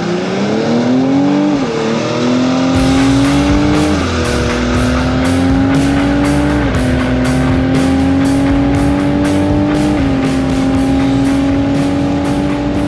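Cadillac CT5-V's tuned twin-turbo V6 accelerating hard at full throttle, heard from inside the cabin. The engine note climbs through each gear and drops at four quick upshifts.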